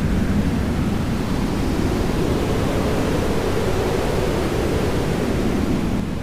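Jet aircraft engine noise from a passing plane: a loud, steady rush whose low band slides up and back down.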